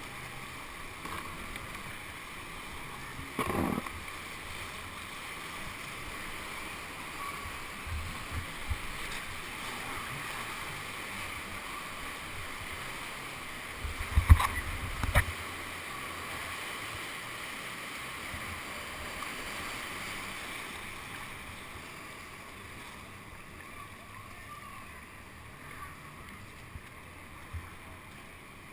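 Rushing whitewater heard from a kayak as it runs the course, a steady rush. A thump or splash comes a few seconds in, and a louder cluster of knocks and splashes about halfway through.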